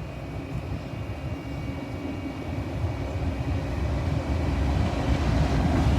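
A train's low rumble, growing steadily louder as it approaches.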